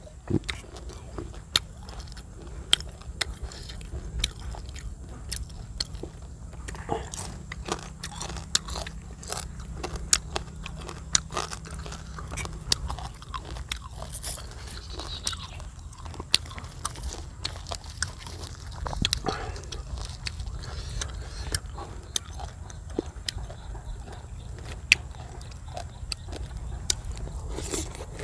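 A person chewing a mouthful of crispy fried silver carp and fresh herbs, with many sharp, irregular crunches, over a low steady hum.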